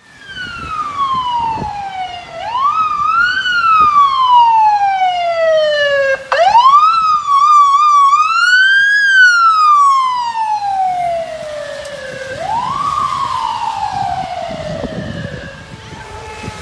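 Fire truck's Federal Signal Q2B mechanical siren winding up and coasting down. It opens on a falling wail, then winds up quickly three times, wavering briefly at the top, and each time coasts slowly down in pitch. It is loudest in the middle and fades toward the end.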